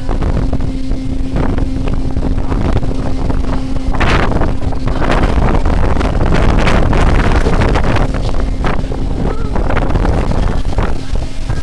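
A fishing vessel's engine runs with a steady hum under heavy wind on the microphone, with bursts of rushing noise from about four seconds in.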